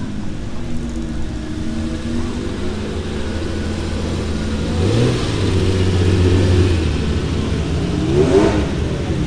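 Classic car engine running as the car moves slowly at low revs, with short rises in revs about five seconds and eight seconds in.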